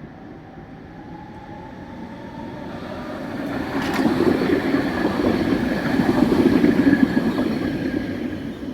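A tram passing close by, its wheels rumbling on the rails, building up over the first few seconds, loudest in the middle and easing off near the end. A sharp click sounds about four seconds in, and a faint rising whine is heard near the start.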